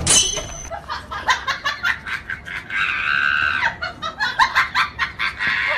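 Laughter in quick short bursts, with one long high-pitched cry about three seconds in.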